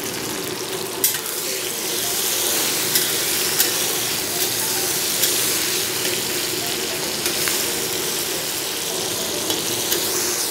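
Sliced onions and ginger-garlic paste sizzling steadily in hot mustard oil in a kadhai, with a spatula scraping and clicking against the pan now and then as they are stirred.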